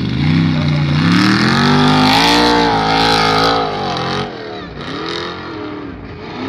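Formula Offroad hill-climb car's engine at full throttle as it charges up a steep sand slope. The loud engine note rises in pitch and wavers for about four seconds, drops off sharply, then comes back in shorter revs.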